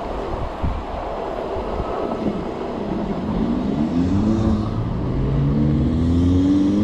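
A nearby car's engine accelerating in traffic, its pitch climbing, dipping once and climbing again and getting louder toward the end, over the rush of wind on the microphone of a moving bike.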